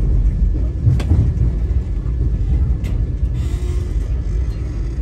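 Vande Bharat Express train running: a steady low rumble, with two sharp clicks about one and three seconds in.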